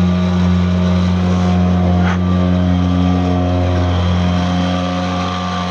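Tohatsu M3.5B2 3.5 hp two-stroke outboard running steadily at full power as it pushes a heavy cabin motorboat, giving an even, unbroken drone.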